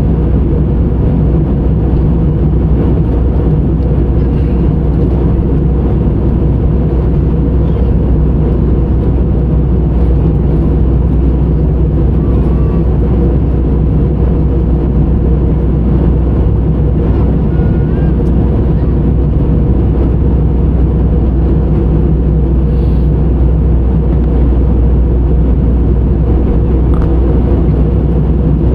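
Steady, loud drone of an airliner's jet engines and rushing air, heard from inside the passenger cabin in flight.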